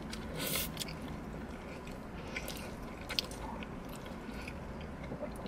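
Close-up eating sounds: biting into a burger and chewing, with soft wet mouth noises and a few faint crunches and clicks over a steady low hum.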